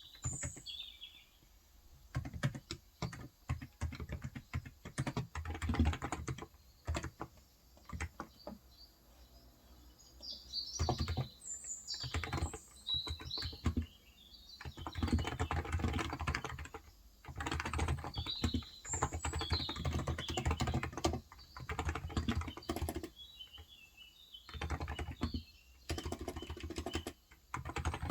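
Typing on a Cox Endeavour electro-capacitive (non-contact) tenkeyless keyboard with 35 g switches, in bursts of fast keystrokes broken by short pauses. Birds chirp now and then in the background.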